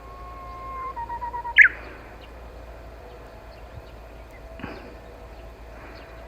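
Japanese bush warbler singing once: a long held whistle, then a quick stuttered phrase ending in a loud, sharp falling note, the classic 'hoo-hokekyo' spring song.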